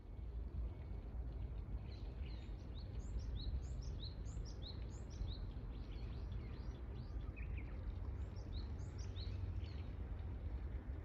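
A small songbird singing a quick series of short, high, rising chirps, starting about two seconds in and going on with a brief break, over a steady low outdoor rumble.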